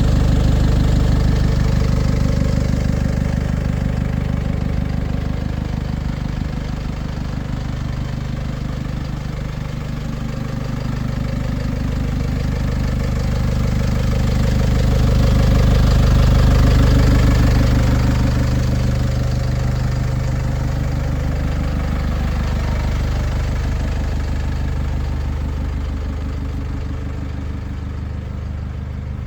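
The diesel engine of an IVECO 80E16 Eurocargo truck idling steadily. It grows louder about halfway through and eases off again toward the end.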